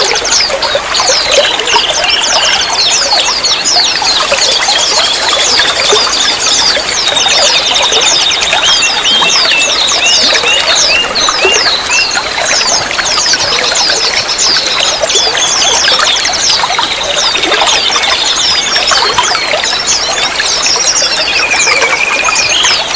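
Running water trickling steadily, with many small songbirds chirping and trilling over it in quick, high calls.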